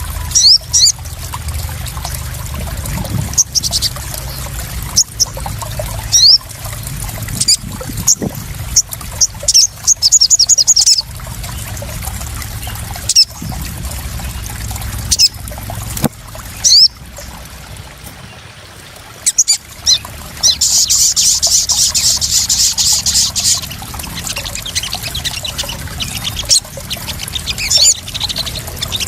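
Sogon (crimson sunbird) calls, with sharp high chirps and bursts of rapid high trills, the longest trill about three-quarters of the way in. Beneath them runs steady splashing and trickling water.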